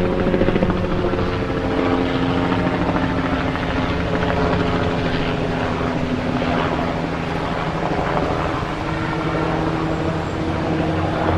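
Helicopter running steadily: rotor chop over the steady hum of its engine.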